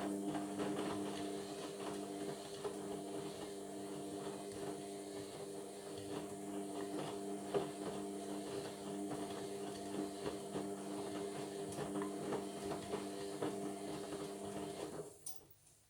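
Indesit washing machine's drum motor running steadily with a hum, turning the drum on a Cotton 60 wash, with light clicks and knocks of the tumbling load. The motor stops about 15 seconds in.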